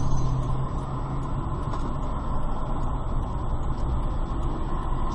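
Steady engine and road noise of a car driving, heard from inside the cabin as a dashcam records it.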